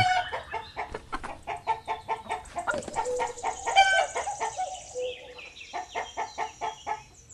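Rooster clucking over and over in short calls, several a second, with one stronger, higher call about four seconds in.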